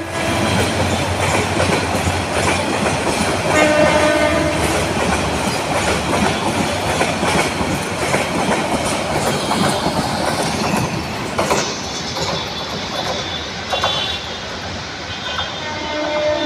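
Bangladesh Railway Mohanganj Express passenger coaches rolling past close by, wheels clattering over the rail joints, with a short horn blast about four seconds in. After about twelve seconds the clatter fades, and short horn sounds come near the end.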